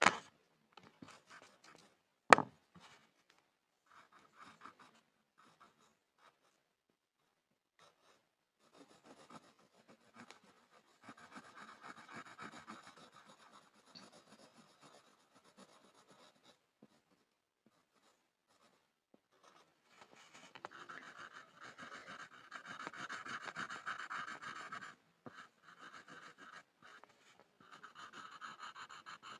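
Pencil scribbling on a board, in stretches of a few seconds of scratching with pauses between. Two sharp knocks in the first few seconds are the loudest sounds.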